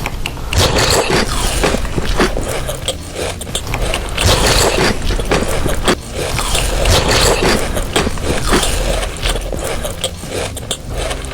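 Dense, close-up crackling and scraping from eating chocolate, a continuous run of many small clicks and crinkles.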